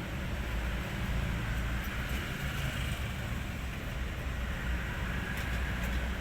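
Hino 500 truck's diesel engine idling steadily.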